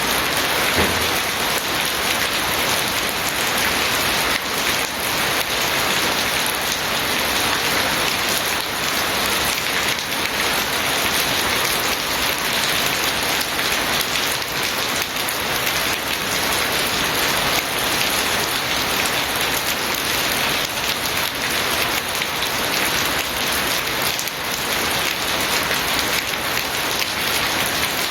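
Steady heavy rain falling and pattering on surfaces, a dense even hiss with fine drop detail.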